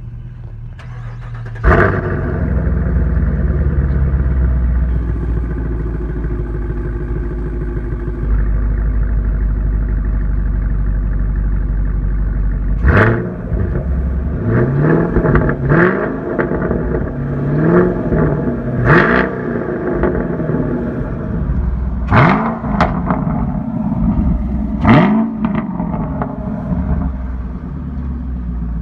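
2017 Chevrolet Camaro SS's 6.2-litre V8 running through a Borla sport exhaust: a loud bark about two seconds in, then a steady idle, then about eight quick throttle blips that rise and fall before it settles back to idle.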